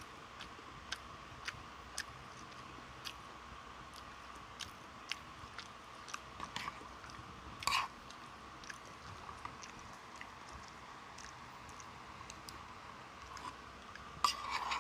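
A person chewing and biting into fried chicken and fried rice close to the microphone: scattered small crunchy clicks, with louder bites about halfway through and near the end.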